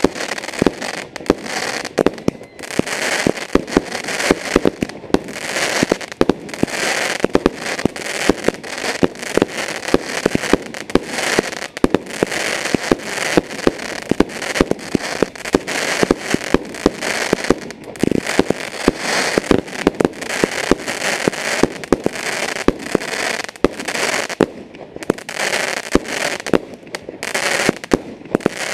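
Fireworks going off in a dense, continuous run: many sharp bangs and crackles, several a second, over a hiss that swells and fades about once a second.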